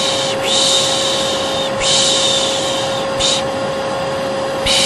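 A vacuum cleaner runs steadily with a constant whine. Over it, a person's long 'shhh' shushing repeats about every second and a half, with one short shush midway: the Turkish 'pış pış' lulling sound used to soothe a baby.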